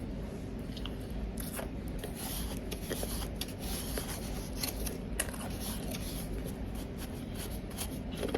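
Powdery ice being bitten and chewed close to the microphone: irregular crisp crunches, many in quick succession, over a low steady hum.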